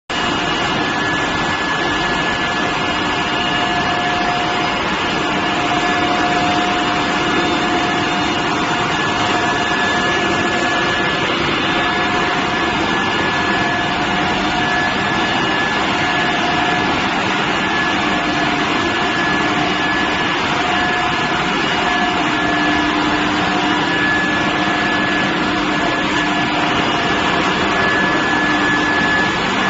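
Steel billet induction heating furnace running: a steady, loud industrial noise with a high, steady whine and lower tones that waver and come and go.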